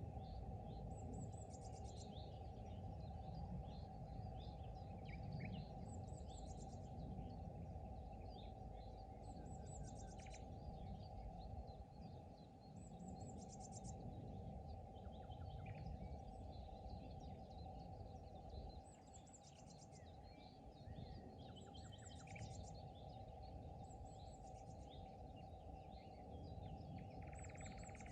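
Several small birds singing and calling by a pond, one repeating a short high trill every few seconds among scattered chirps. Underneath is a faint, steady low rumble of background noise.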